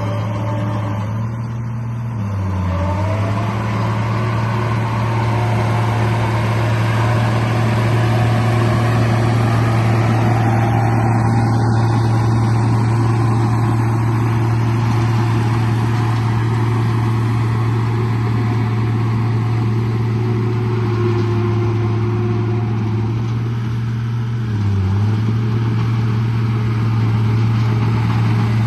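Remote-control bulldozer running steadily with a low, even drone. Its pitch dips briefly twice: about two seconds in and again near the end.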